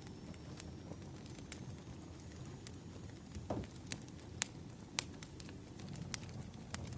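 Wood fire crackling: irregular sharp pops over a steady low rumble, with one brief falling tone about halfway through.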